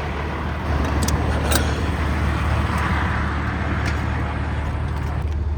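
A car driving past: its engine and tyre noise swells about a second in and fades away near the end, over a steady low engine rumble.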